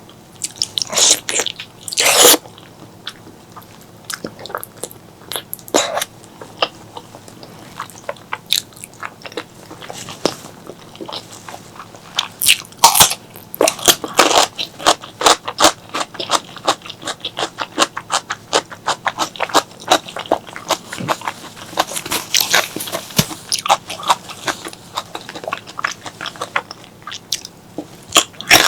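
Close-miked eating sounds of a person chewing spicy pork leg curry and white rice: irregular wet mouth clicks and smacks, with louder bursts of bites a couple of seconds in, around the middle and again later on.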